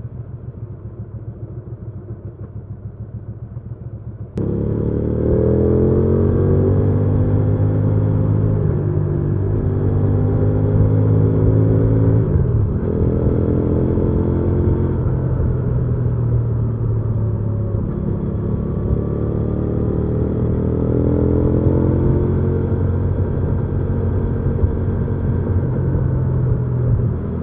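Hyosung GV300S V-twin motorcycle engine heard while riding. A lower rumble for the first few seconds is followed by a sudden jump in loudness. The revs then climb and drop several times as the bike accelerates and shifts gears.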